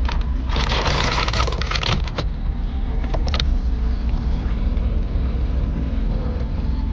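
Boat motor running steadily with a low rumble. A burst of hissing noise lasting about a second and a half comes in about half a second in, followed by a few short clicks around three seconds in.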